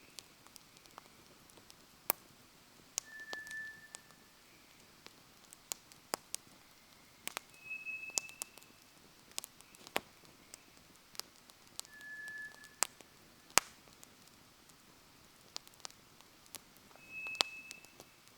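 Wood fire crackling with irregular sharp pops. A short, high, steady whistled note sounds about every four to five seconds, alternating between a higher and a lower pitch (four notes in all).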